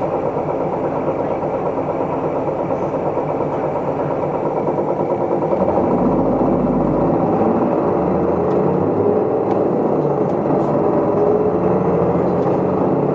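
Isuzu Erga Mio route bus's diesel engine heard from inside the bus: it runs steadily, grows louder about six seconds in with a low rumble, then rises in pitch as the bus accelerates.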